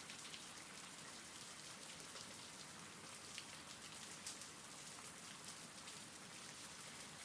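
Faint, steady rain-sounds ambience: an even hiss of rain with the patter of scattered drops, and a couple of slightly louder drops in the middle.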